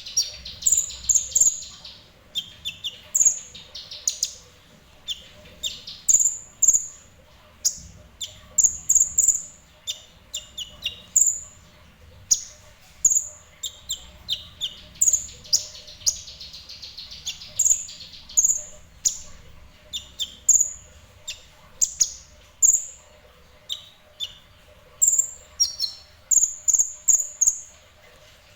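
Kolibri Ninja sunbird calling in short, high, sharp chirps, singly and in quick runs of two to four, with brief pauses between them.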